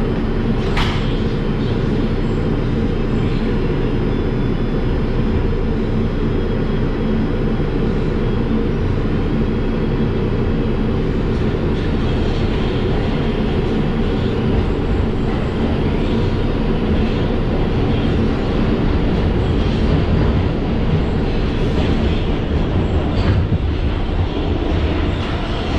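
R142 subway car interior as the train runs between stations: a steady, loud rumble of the wheels on the rails, with a sharp clack about a second in and another near the end.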